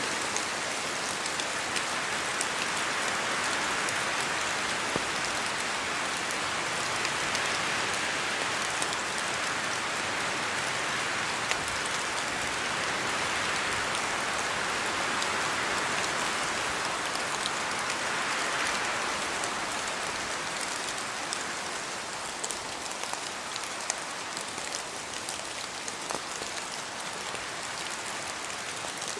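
Steady rain falling in a forest, with many separate drops pattering from the trees, easing a little in the later part.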